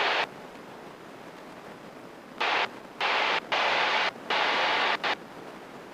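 Aircraft headset radio or intercom hiss cutting in and out: about five short bursts of steady static switch on and off abruptly in the middle, over a faint background hiss.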